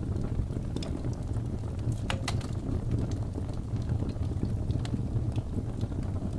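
Wood fire burning in a fireplace: a steady low rumble with scattered crackles and pops, and a short run of sharper pops about two seconds in.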